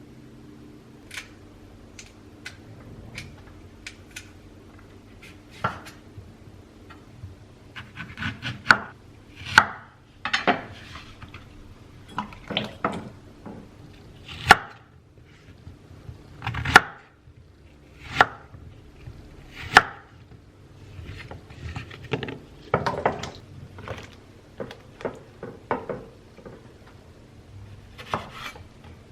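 Kitchen knife chopping on a wooden cutting board in irregular strokes, some in quick runs of several cuts, with a faint steady hum underneath.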